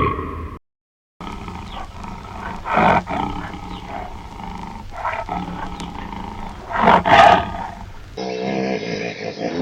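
A big cat roaring and growling in several loud calls, after a brief silent break about a second in. Near the end a different animal sound takes over.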